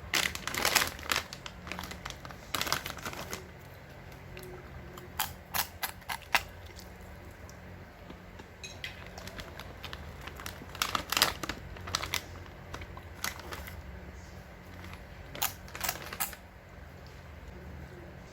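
Plastic snack packaging crinkling and rustling in short bursts of crackles, several times, as it is handled and torn open.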